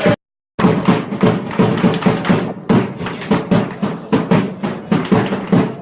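Football supporters beating drums in a fast, steady rhythm, with a brief cut-out in the sound just after the start.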